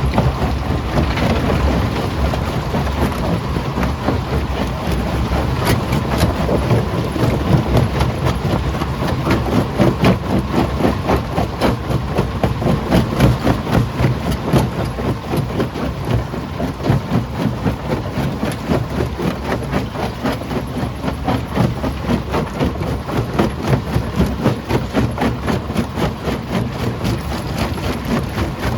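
Primary jaw crusher running, breaking stone with a dense stream of irregular knocks and cracks over a steady low machine drone.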